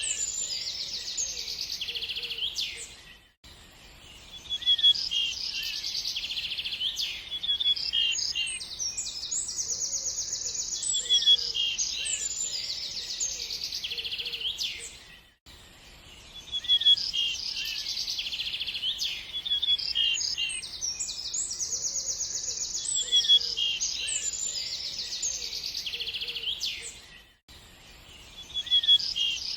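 Songbirds chirping and singing fast trills, several calls overlapping in a high register. The passage repeats about every twelve seconds, with a brief dip in level each time it starts over.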